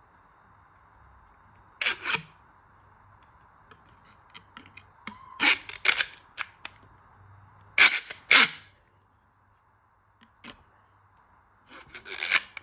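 Sharp clacks and brief scraping noises in short bursts, mostly in pairs, from the parts and packaging of a magnetic water softener being handled, over a faint steady hum.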